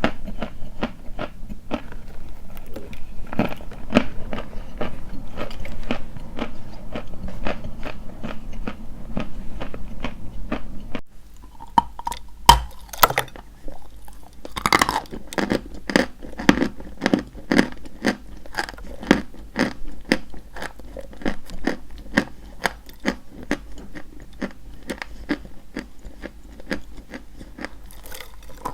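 Close-miked biting and chewing of dry white chalk: a steady run of crisp crunches, several a second.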